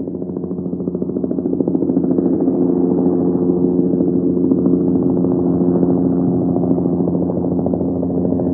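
Cartoon helicopter engine and rotor sound effect: a steady, low droning hum with a fast, even pulse. It swells over the first couple of seconds and then holds.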